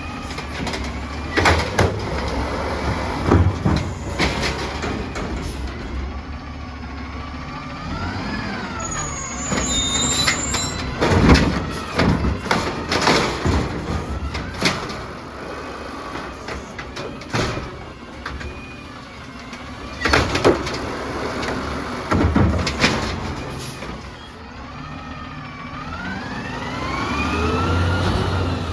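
Natural-gas automated side-loader garbage truck emptying carts, its engine idling while the hydraulic arm works without revving. A whine rises and falls in pitch as the arm lifts and lowers, and repeated clanks and bangs come from the cart and trash dropping into the hopper.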